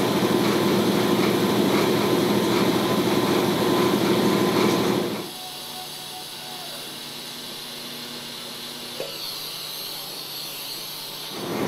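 A power tool runs loudly for about five seconds, then stops suddenly, leaving a much quieter steady hum.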